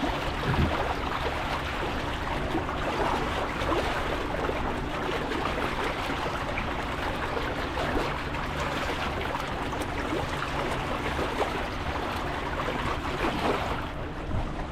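Water splashing and rushing along the hull of a moving boat, over the steady low hum of its motor.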